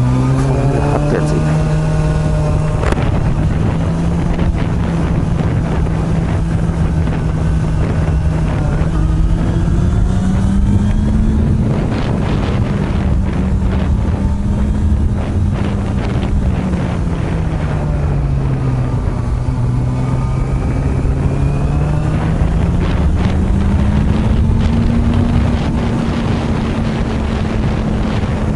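Honda CB400 Super Bold'or (NC42) inline-four with an r's gear aftermarket exhaust, running steadily while riding uphill; its pitch falls about eighteen seconds in and climbs again a few seconds later. Wind noise on the microphone runs underneath.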